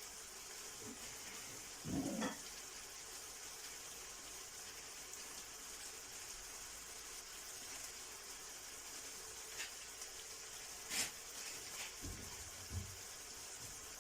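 Pot of okra stew with tomato and pepper paste sizzling faintly and steadily as it cooks, with a few soft knocks and clicks.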